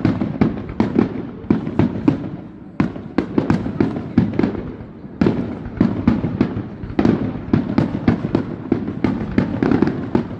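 Aerial fireworks display: a rapid barrage of shell bursts, several bangs a second with echoes between them, easing off briefly about two seconds in and again about four and a half seconds in.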